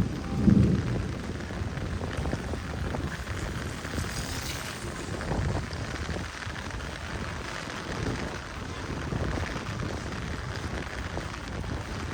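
Heavy rain falling as a steady hiss on the street. A low rumble dies away in the first second.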